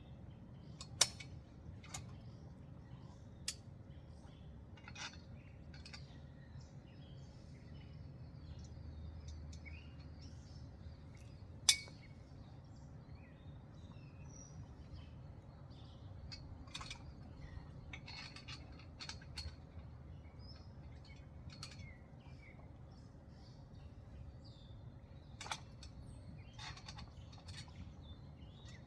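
Scattered sharp metal clinks and knocks from steel trampoline frame parts and bolts being handled; the loudest comes about a second in and another near the middle. Faint bird chirps and a low steady rumble lie underneath.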